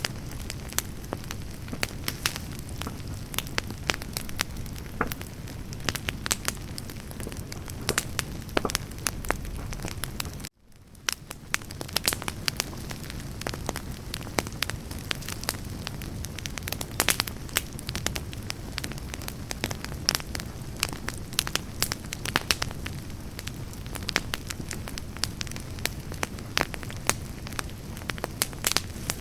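Wood campfire burning, with a steady low rush and frequent sharp crackles and pops of the burning logs. The sound cuts out for an instant about ten seconds in, then comes back.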